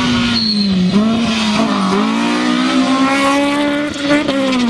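Rally car engine revving hard through a corner at high revs. Its pitch dips twice in the first couple of seconds, then climbs and holds before dropping near the end.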